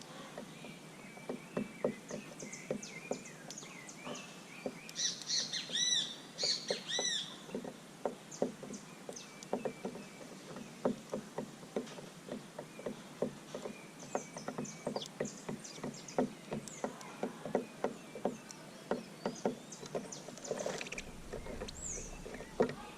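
Small birds chirping at a seed feeder, a quick run of bright, arched chirps about five to seven seconds in and scattered single notes elsewhere, over a steady patter of small light taps.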